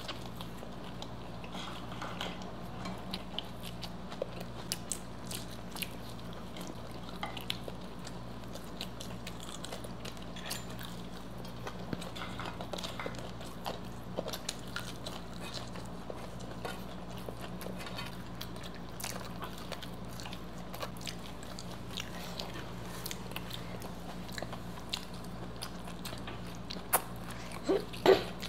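Close-miked chewing and biting of food, many small wet mouth clicks and occasional crunches, over a steady low electrical hum. A few louder clicks come near the end.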